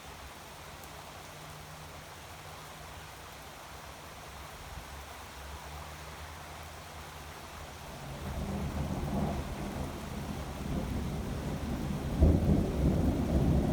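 Thunder: a faint low hum, then a low rolling rumble builds from about eight seconds in, with a sudden louder clap near the end.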